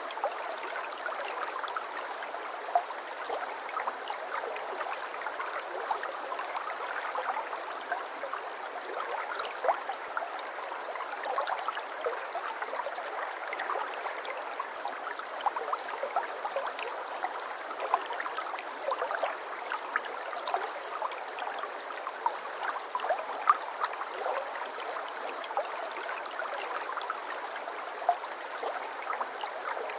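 A babbling brook: shallow water running steadily over stones, with many small splashes and gurgles and an occasional louder plop.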